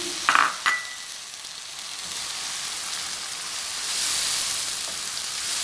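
Chopped tomato sizzling in hot oil with fried onion and ginger-garlic paste in a non-stick wok as it is stirred. The spatula scrapes and clicks against the pan about half a second in, then a steady hiss that swells a little around four seconds in.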